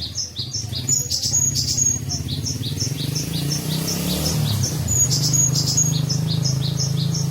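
Cinereous tit (gelatik batu) calls: a sharp two-note chirp, high then lower, repeated evenly about three times a second, with a few higher whistled notes around one and five seconds in. A steady low hum runs underneath.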